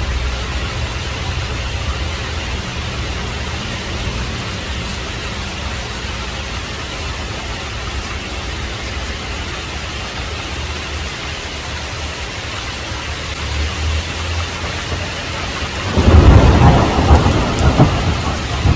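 Heavy rain falling steadily with a low thunder rumble under it. About three seconds before the end a loud crack of thunder breaks in and rolls on.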